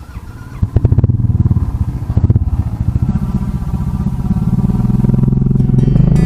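Motorcycle engine pulling away. It picks up about a second in, then runs on and grows steadily louder as the bike gathers speed.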